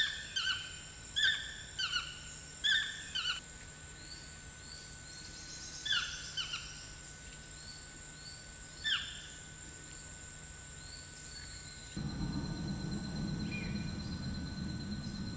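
A bird calling in a series of short, downslurred notes, quickly repeated at first and then spaced out, over a steady high insect-like drone. About twelve seconds in, the sound cuts to a louder, noisy outdoor background.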